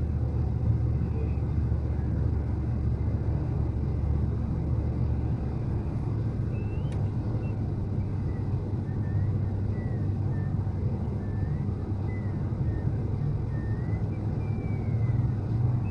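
Steady low rumble of a four-wheel-drive vehicle's engine and tyres driving on snowy roads, heard from inside the cabin. Faint, wavering high squeaks come and go in the second half.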